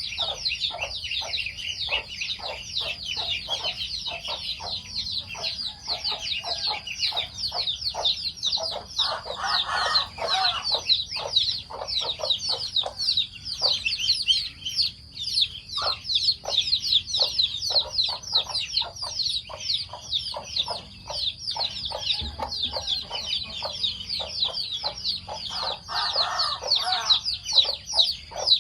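A flock of chickens feeding: a dense, unbroken high chirping over rapid short clucks, a few a second. Two longer, louder calls come about ten seconds in and again near the end.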